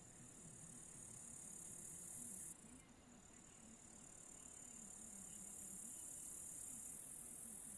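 Faint, steady high-pitched buzzing trill of an insect stridulating, breaking off about two and a half seconds in and resuming half a second later.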